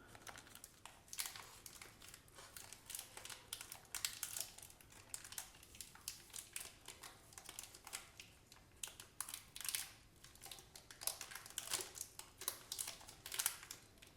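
Granola bar wrapper being opened and handled, crinkling in many short irregular crackles.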